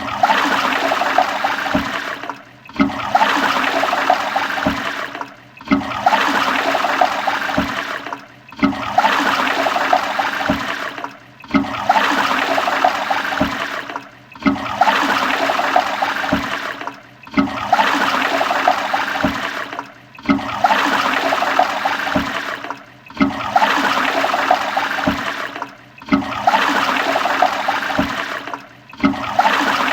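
Toilet flushing with a rush of water, over and over: each flush starts suddenly, fades, and stops in a short gap before the next, about every three seconds.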